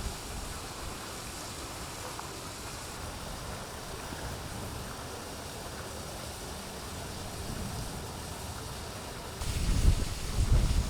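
Steady outdoor wind noise. About nine seconds in, strong gusts start buffeting the microphone with loud, uneven low rumbling.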